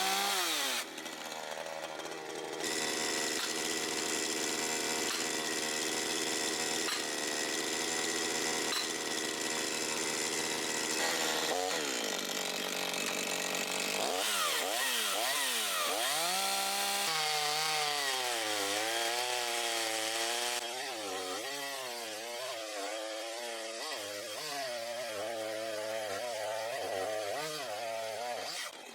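Makita DCS5121 50 cc two-stroke chainsaw running: held at high revs for several seconds, then the engine speed rises and falls over and over through the second half.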